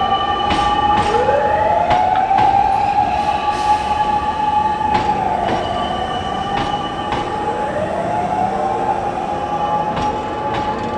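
Hankyu electric train running slowly through Umeda station, with a steady high-pitched squeal and sharp clicks of the wheels over rail joints and points at irregular intervals. The train gets slightly quieter in the second half.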